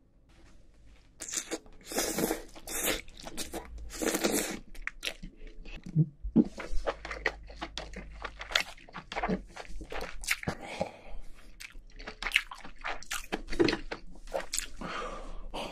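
Close-miked eating of king crab: the shell is cracked and handled with gloved hands and the meat is chewed, heard as a run of short crunches, crackles and wet mouth clicks.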